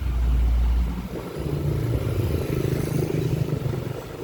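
A motor vehicle engine running, with a heavy deep rumble that drops away about a second in and a steadier hum after it.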